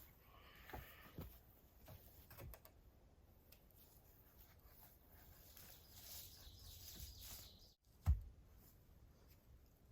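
Faint rustling and a few soft knocks, then one sharp low thump about eight seconds in, just after a brief drop to silence.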